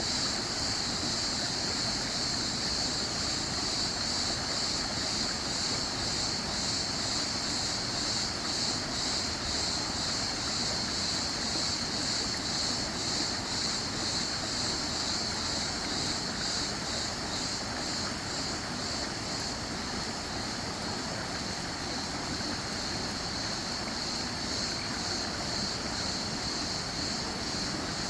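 Running water of a stream rushing steadily, an even, unbroken hiss with no other sound over it.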